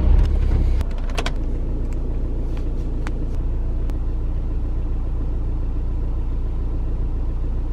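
Car engine starting, louder for the first second, then settling into a steady idle.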